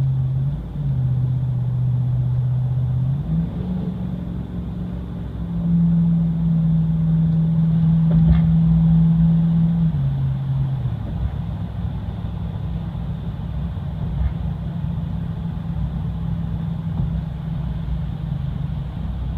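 6.4 L Hemi V8 exhaust through a 40 series Flowmaster muffler with the resonator deleted, heard from inside the pickup's cab at highway speed. A steady low exhaust note steps up in pitch about three seconds in and is loudest for a few seconds midway, then settles back to a lower steady note.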